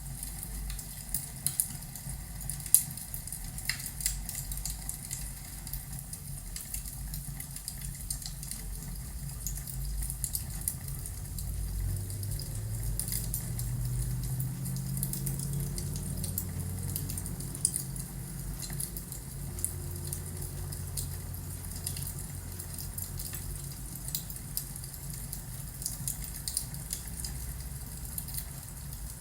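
Crackling fireplace fire: scattered sharp pops and snaps over a low rumble, with the loudest pop a few seconds in.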